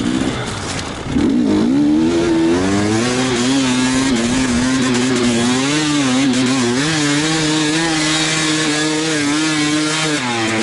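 Enduro motorcycle engine running under changing throttle. It dips about a second in, then its pitch wavers up and down in short rises and falls before settling steadier near the end.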